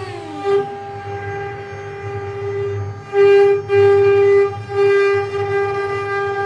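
Mini CNC machine running, its motors giving a steady pitched whine. The pitch drops briefly at the start, and from about three seconds in the whine grows louder in several stretches with short breaks between them.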